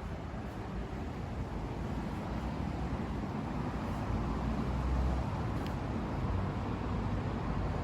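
Honda CB1100EX's air-cooled inline-four engine running steadily through a Moriwaki four-outlet exhaust, a low, even exhaust note that swells slightly around the middle.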